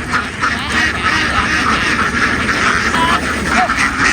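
A large flock of domestic ducks quacking all together, many calls overlapping in a continuous din.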